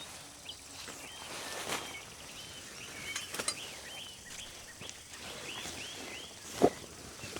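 A bird singing a long run of short, arched chirps over a faint steady background hiss. There are a few light knocks, and one louder thump comes about six and a half seconds in.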